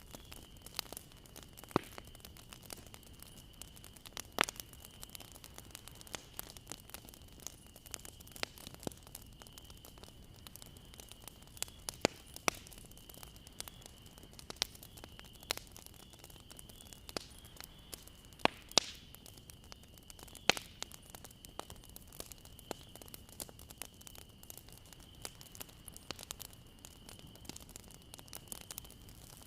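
Wood fire crackling: irregular sharp pops and snaps over a low hiss, a handful of them much louder, with a faint thin high tone held steady underneath.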